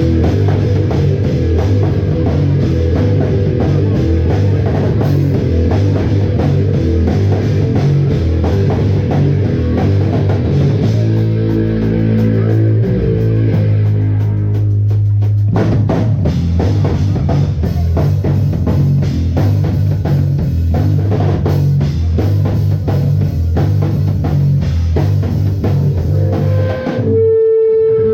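Live rock band playing an original song loudly: drum kit with bass drum, guitars and bass. Near the end the band drops out, leaving one steady held tone.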